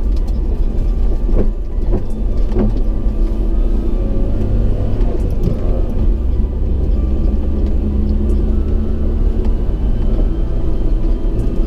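2000 Suzuki Carry mini truck driving on soft gravel: a steady low rumble of its small three-cylinder engine and Maxxis Bighorn off-road tyres, with a few sharp knocks in the first couple of seconds.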